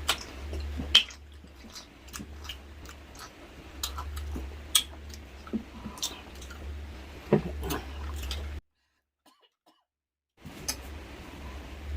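A person chewing and eating braised pork hock (humba), with scattered wet mouth smacks and short clicks over a steady low hum. The sound drops out completely for about two seconds near the end.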